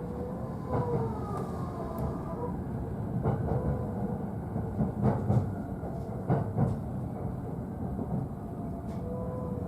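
E531 series electric train running, heard from the upper deck of a double-deck car: a steady rumble with rail-joint clacks, several coming in quick pairs as the bogies pass over the joints, and faint high tones over it.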